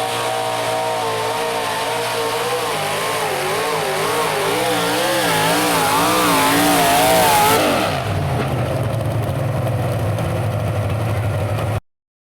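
Modified pulling vehicle's engine running at high revs under load, its pitch wavering up and down, loudest about seven seconds in. Then the revs drop sharply to a low, steady run, and the sound cuts off suddenly near the end.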